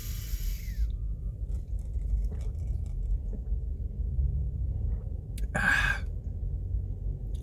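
A man breathing hard against the burn of very spicy food, with one sharp breath hissed out a little past halfway, over a steady low rumble.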